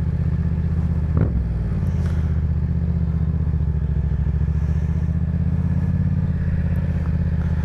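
Sport motorcycle engine running steadily as the bike is ridden, with a brief drop and rise in pitch from a quick throttle change about a second in.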